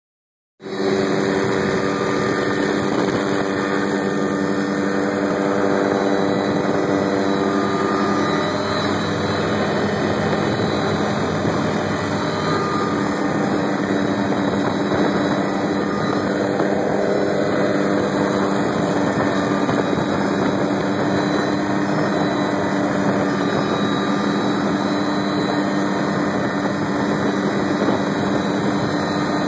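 Helicopter running steadily: continuous engine and rotor noise with a steady low hum, cutting in just after the start.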